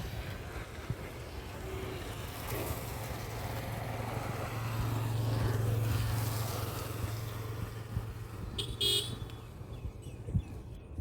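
A motor vehicle passes, its engine hum building to its loudest about halfway through and then fading. There is a faint short horn beep about two seconds in and a louder horn toot near the end.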